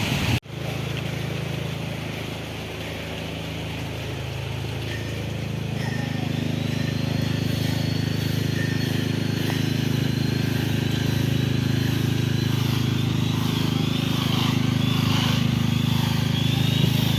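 An engine running steadily, its low hum building over the first few seconds and then holding, with a thin high whine that wavers on top from about a third of the way in.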